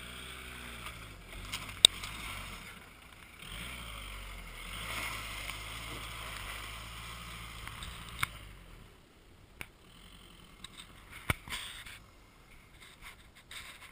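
Mitsubishi Outlander's engine running at low speed as the SUV crawls over an uneven grassy mound with one wheel off the ground. It eases briefly about three seconds in, then fades away after about nine seconds as the car drives off. A few sharp clicks come through, the loudest about two seconds in.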